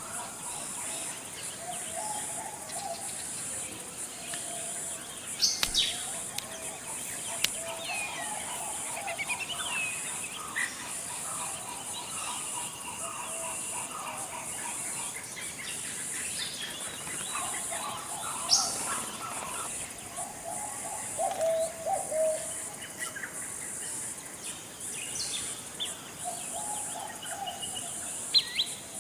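Tropical forest ambience: several birds calling at intervals, with low warbling phrases and a few sharp high chirps, over a steady high-pitched hiss.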